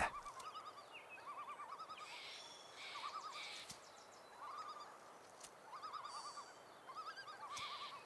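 Faint forest birdsong: short phrases of quick rising-and-falling warbled notes, repeating every second or so.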